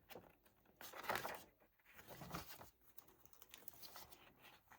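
Faint rustling and soft handling of paper as the pages of a handmade paper journal and its tucked-in ephemera are turned, in a few irregular brushes and crinkles.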